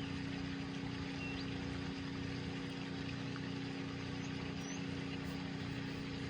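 A steady, even mechanical hum with a hiss, holding one low tone throughout.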